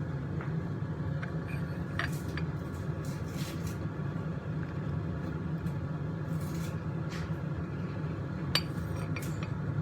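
Steady low rumble with scattered light clicks and clinks, one sharper clink near the end.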